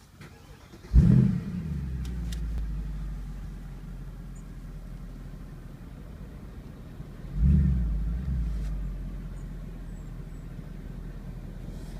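Mercedes-Benz C63 AMG Edition 507's 6.2-litre V8 starting up: it fires about a second in with a loud flare, then settles into a steady idle. About seven and a half seconds in it is blipped once in a short rev before dropping back to idle.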